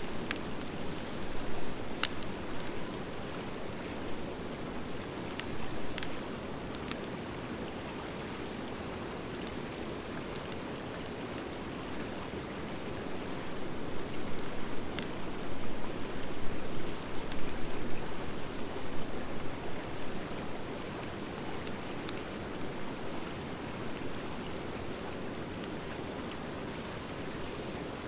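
Campfire of driftwood and dry hardwood firewood burning, with a steady hiss and scattered sharp crackles and pops; the crackling grows busier and louder for a few seconds around the middle.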